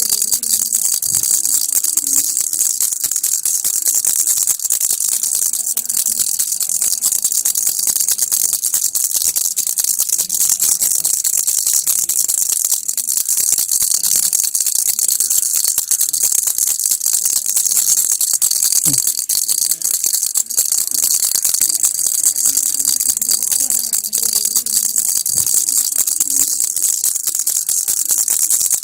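Baby rattle (kilukki) shaken steadily and continuously, a dense, even, bright rattling of small beads with no pauses.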